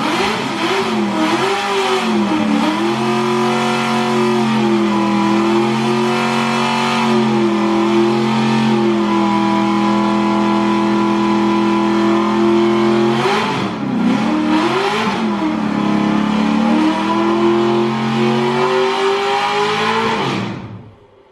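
Car engine revving under load: the pitch wavers up and down several times, then holds steady at high revs for long stretches, and the sound cuts off abruptly near the end.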